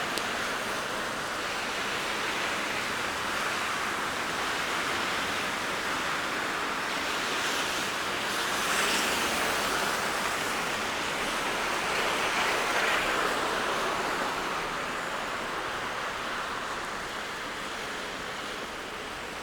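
Steady hiss of city traffic on snowy streets, swelling twice as vehicles pass.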